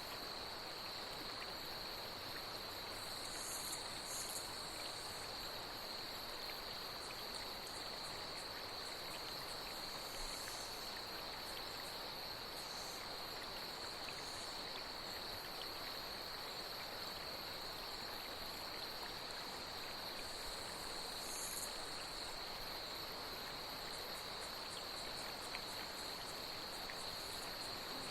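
Nature soundscape of night insects keeping up a steady high trill over the even rush of flowing water, with a few short, higher insect buzzes now and then.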